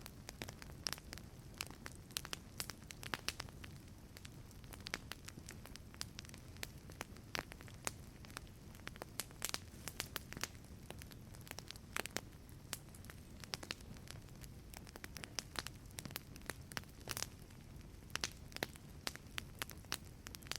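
Wood fire crackling in a fireplace: irregular sharp pops and snaps over a soft, steady low rumble of the burning fire.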